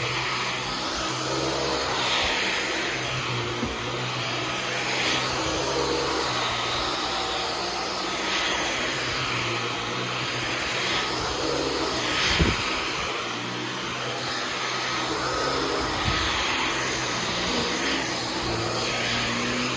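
Dyson V15 Detect cordless stick vacuum running steadily with a high motor whine, its sound swelling and easing every few seconds, with one sharp knock about two-thirds of the way in.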